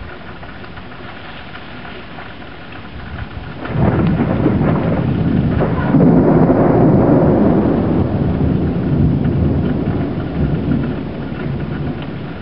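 Thunder breaking a few seconds in and rumbling loudly for several seconds before slowly fading, over the steady hiss of heavy rain.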